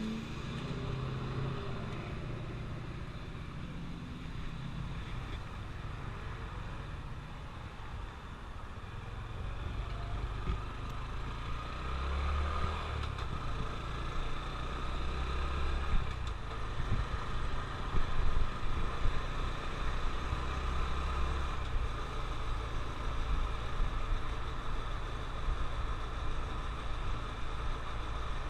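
Honda CT125 Trail 125's single-cylinder four-stroke engine running during a ride. Its note shifts in pitch as the bike changes speed, and it gets louder from about ten seconds in.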